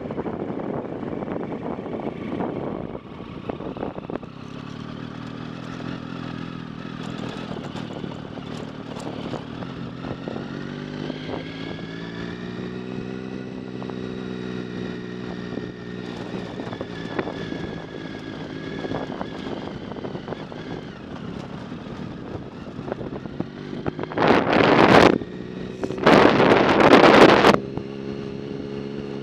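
A vehicle engine running steadily, its pitch slowly rising and then falling again in the middle. Near the end come two loud bursts of rushing noise.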